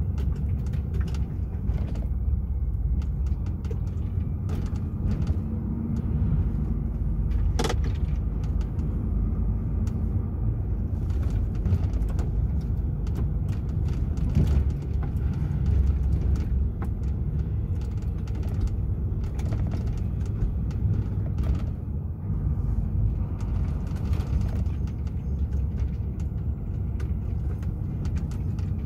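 DAF XF 480 truck on the move: the steady low rumble of its engine and road noise, with scattered knocks and rattles, the sharpest about eight seconds in.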